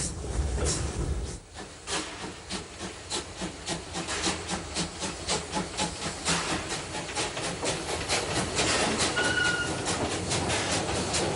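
Steam locomotive (SLM-built G 3/4 2-6-0 Mogul, ex-Rhaetian Railway No. 14) working a train: rhythmic exhaust chuffs, several a second, over a steady steam hiss. A brief high tone sounds about nine seconds in.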